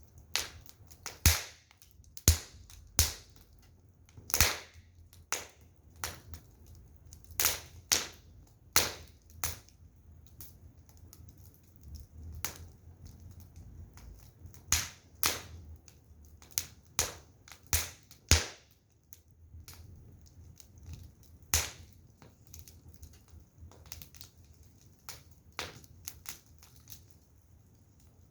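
Burning firewood crackling, with irregular sharp pops and snaps, sometimes several in quick succession and sparser in the later part.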